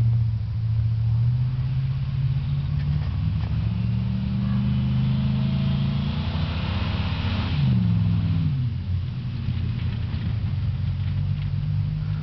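2002 Chevy truck's engine revving under load while spinning donuts in snow: the pitch climbs over several seconds and peaks about seven seconds in with a rush of hiss, then drops quickly and settles to a steadier run.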